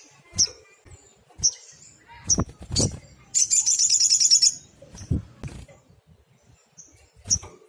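Sunbird calling: a string of sharp, high chip notes spaced a second or so apart, and a fast, buzzy trill lasting about a second near the middle.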